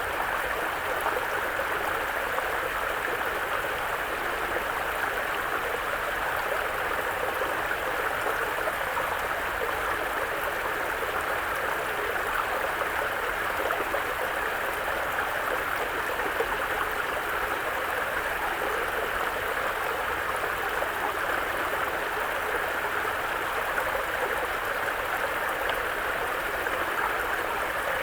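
Mountain brook running: a steady, even rush of flowing water that holds unchanged throughout.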